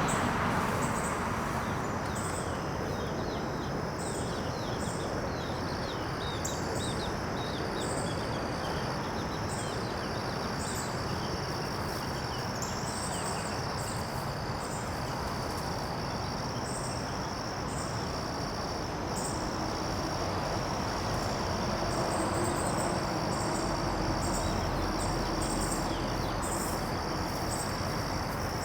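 Insects chirping steadily outdoors, a constant high buzz with short higher pulses repeating about once a second, over an even background hiss. Faint bird chirps come through in the first half.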